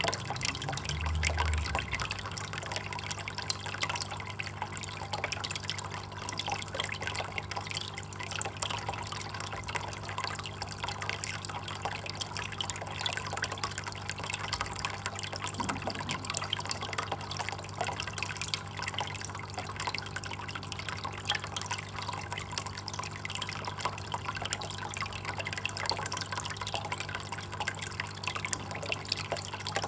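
Water trickling and dripping steadily, a dense patter of small splashes, over a steady low hum.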